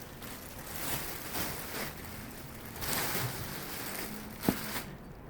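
Rustling handling noise in repeated short swells, with one sharp click about four and a half seconds in.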